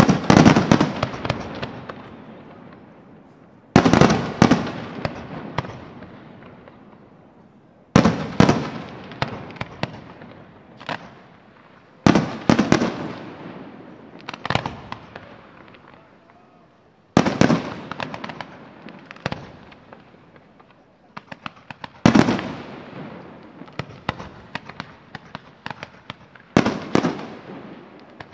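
Fireworks display: seven heavy shell bursts, one about every four to five seconds, each followed by a rapid string of crackles and pops and a rumble that slowly dies away.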